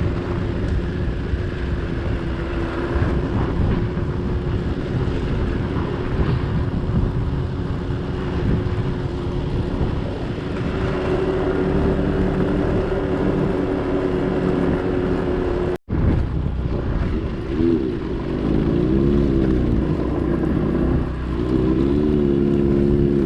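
Motor vehicle engine running steadily. After a sudden break about two-thirds of the way through, its pitch rises and falls repeatedly as it revs.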